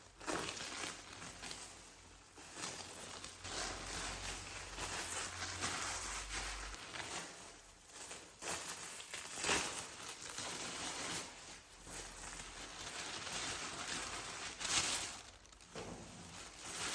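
Packaging being handled and opened: crinkling and rustling, with a couple of sharper handling noises.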